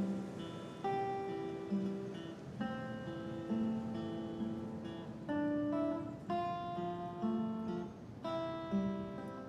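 Acoustic guitar music, chords strummed and changing about every second.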